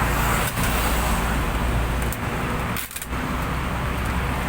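Steady background rumble and hiss, dipping briefly about three seconds in.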